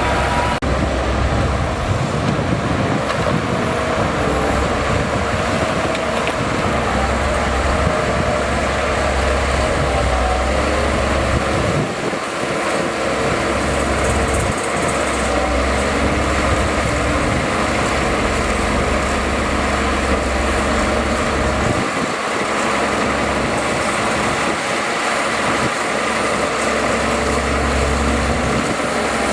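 Bulldozer's heavy diesel engine working hard while pushing soil. The deep engine note runs steadily and drops back briefly about twelve seconds in and again about twenty-two seconds in.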